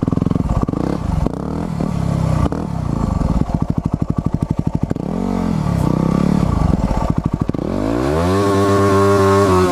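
Motorcycle engine being ridden off-road, its revs rising and falling with the throttle, chugging at low revs about halfway through, then climbing steadily in a long rev near the end.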